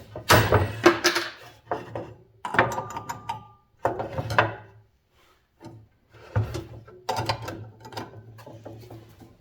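Metal tools and small parts being handled on a workbench: irregular clattering, clicks and knocks in short bursts, over a low steady hum.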